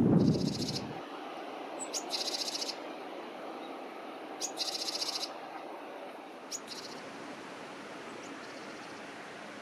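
Bird calls outdoors: three short, high, buzzy trills about two seconds apart, with a few sharp chirps between them, over a faint steady hiss. Wind buffeting the microphone dies away in the first second.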